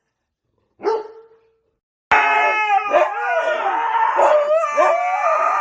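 A dog gives one short bark, then about two seconds in loud howling starts abruptly, several pitched voices wavering up and down together without a break.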